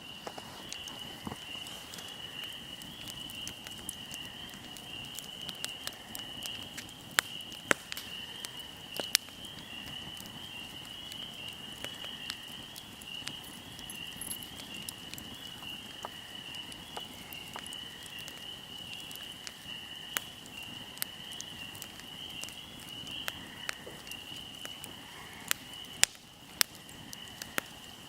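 Wood fire crackling, with irregular sharp pops, a few of them loud, over a steady high chirring trill of insects such as crickets.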